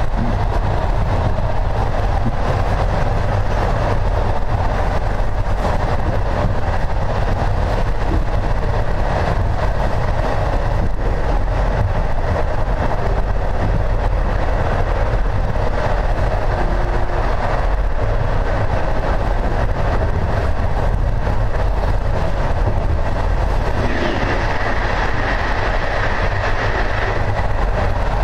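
Passenger train running along the line, heard at a carriage window: a steady rumble and rush of wheels on rails. A brighter, higher hiss joins for about three seconds near the end.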